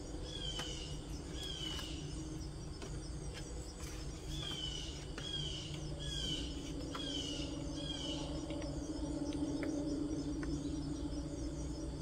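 Outdoor ambience: a bird gives short downslurred chirps about eight times over the first eight seconds, over a steady insect drone and a low hum that swells in the second half. Faint ticks of paper being handled come in between.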